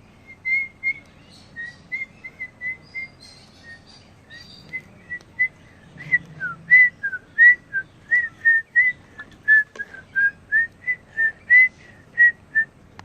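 A person whistling a tune in short, separate high notes, soft and sparse at first, then louder and quicker from about six seconds in, with a few notes sliding down in pitch.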